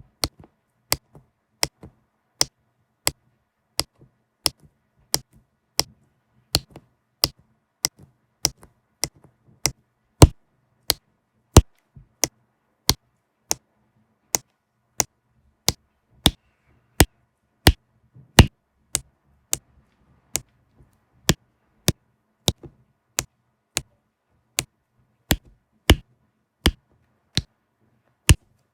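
Sharp plastic taps of a diamond painting pen setting diamonds onto the canvas, about three every two seconds in a steady, slightly uneven rhythm.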